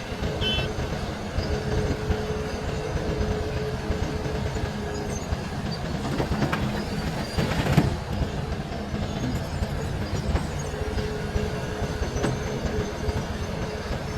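Large Hitachi mining excavator working, its engine and hydraulics giving a steady heavy rumble with a whining tone that comes and goes. A brief louder crash comes a little past the middle.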